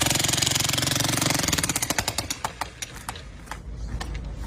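Jackhammer hammering in a rapid, steady train of blows, then trailing off into scattered separate knocks after about two seconds.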